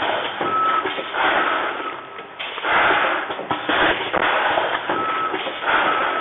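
ATM-320C vertical form-fill-seal packing machine with measuring cups running, packing rice: a rushing, hissy surge roughly every two seconds as each dose of rice pours into the bag and the bag is sealed and cut. A short steady high tone sounds twice.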